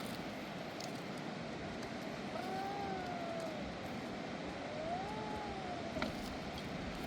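Steady rushing of a mountain river. Midway, a long wavering call glides down, then rises and falls again, and a sharp click follows near the end.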